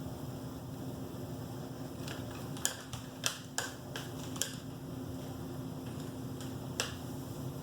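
A steady, fan-like hum with about half a dozen sharp, short clicks or taps, bunched in the middle with one more near the end.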